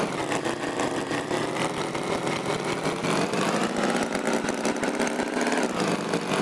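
An engine running with a fast, even chugging. Its pitch eases down at first and rises again near the end.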